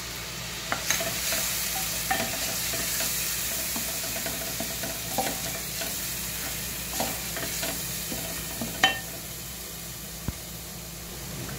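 Onions, whole red chillies and ginger-garlic frying in oil and ghee, sizzling steadily, while a wooden spoon stirs and scrapes around a metal pot. The spoon clicks against the pot now and then, with one sharp knock about nine seconds in.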